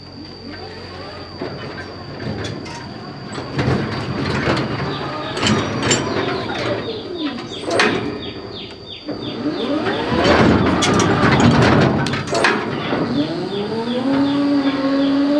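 Farm animals calling: several long calls that rise and fall in pitch, and near the end one long call that rises and then holds steady, over a fast steady ticking.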